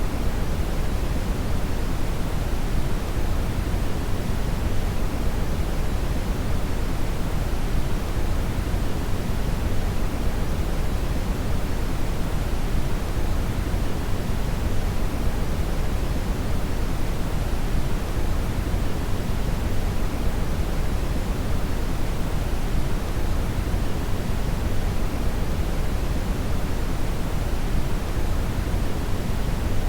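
Synthetic brown (red) noise: a steady, unchanging hiss with its weight in the deep lows, falling off toward the highs, like a low rumble without any pattern.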